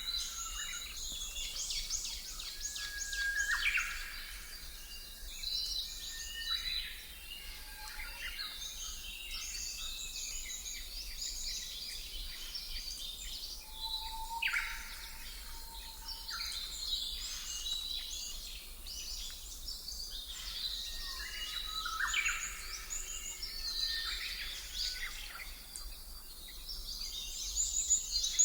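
Birdsong ambience: many small birds chirping and trilling in quick overlapping calls over a faint steady background hiss, with a louder cluster of chirps near the end.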